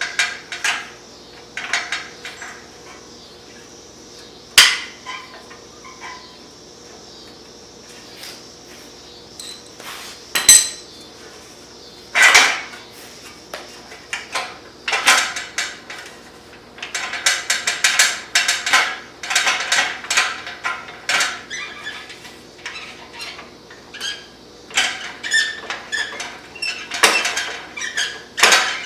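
Irregular metallic clanks, clinks and rattles of hand tools and exhaust hardware being worked on the motorcycle's stock exhaust, with a dense run of rapid clicking partway through.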